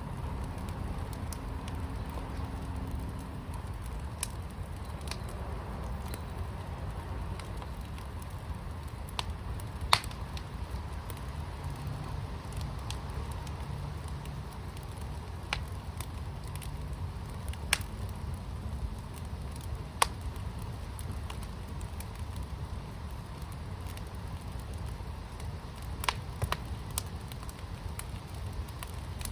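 Fire burning in a fire pit: scattered sharp pops and crackles over a steady low rumble, with the loudest pops about a third of the way in and near the middle.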